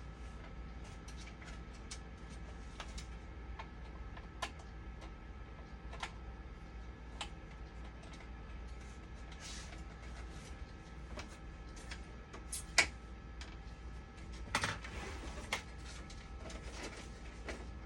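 Scattered light clicks and taps over a steady electrical hum, with a sharper click about 13 seconds in and a small cluster of knocks a couple of seconds later.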